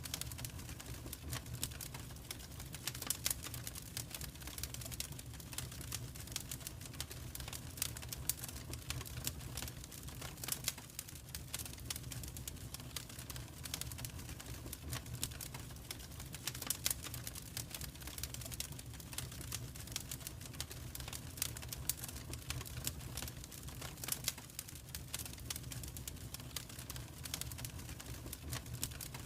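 Wood fire crackling in a fireplace: a steady stream of irregular sharp crackles and snaps, some louder than others, over a low steady rumble.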